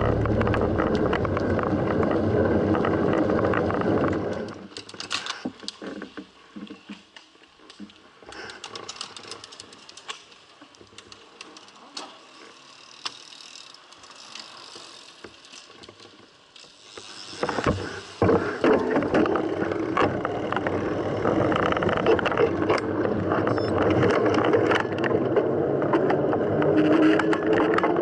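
Mountain bike being ridden: rushing wind and road noise with the bike rattling and clicking over rough ground. About four seconds in it drops to a much quieter stretch of light clicks and ticks, then turns loud again after the middle.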